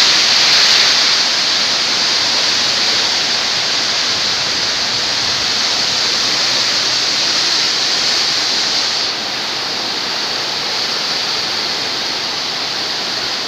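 Strong wind rushing steadily in a constant loud hiss, dropping slightly about nine seconds in.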